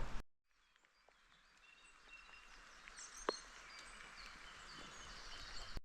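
Faint birds chirping over quiet outdoor ambience, coming in after a second or so of dead silence, with one sharp click about three seconds in.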